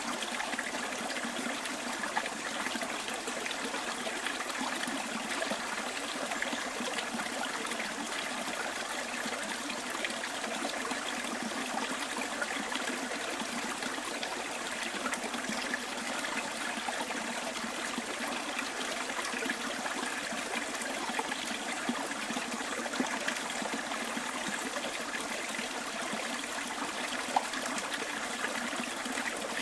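Stream water flowing steadily, with a few brief louder splashes, the sharpest one near the end.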